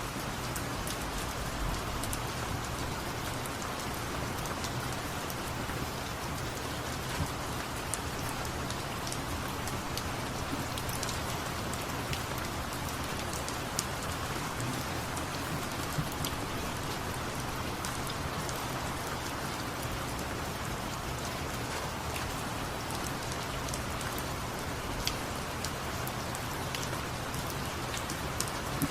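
Steady rain: an even hiss with many small sharp drop ticks scattered through it.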